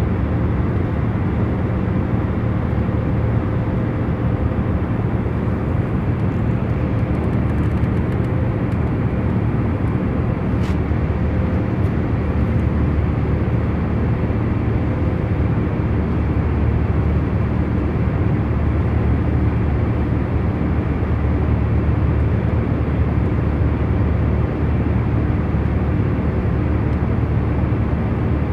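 Airliner cabin noise in cruise: a steady, even low hum of engines and airflow with a few faint steady tones in it.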